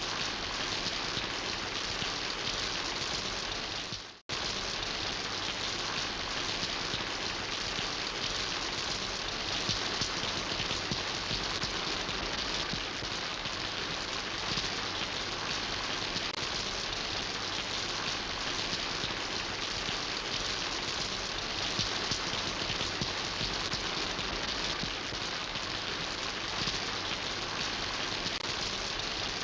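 Steady rain falling and pattering on surfaces, an even hiss of drops. About four seconds in, the sound briefly fades out to silence and cuts straight back in.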